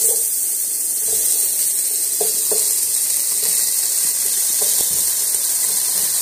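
Shrimp and diced bell peppers sizzling in hot oil as they are spooned into a pot: a steady frying hiss.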